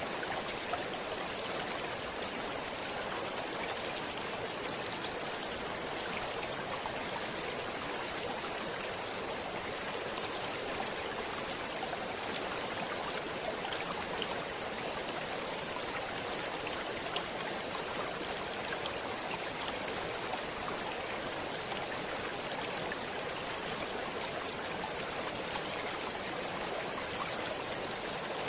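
Stream water flowing: a steady, unbroken rush with small splashes and drips ticking through it.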